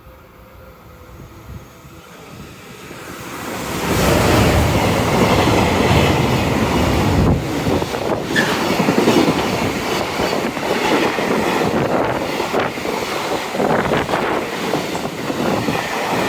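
Train approaching and passing close by: its noise builds over the first few seconds, then stays loud, with repeated clacks of the wheels over rail joints.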